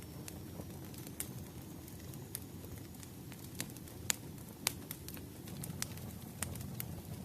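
Wood fire burning: a low steady rumble with sharp, irregular crackles and pops from the burning firewood, the loudest a little past four seconds in.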